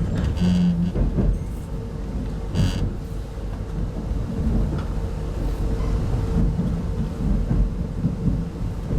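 Steady low rumble of a 25T-series passenger coach running on the rails, heard from inside the carriage, with a constant hum and a few brief higher-pitched noises in the first three seconds.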